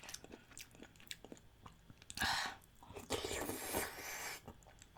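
Close-miked mouth sounds of a person eating spicy chicken-feet stew: soft wet chewing clicks, then a short and a longer louder wet, noisy stretch in the second half.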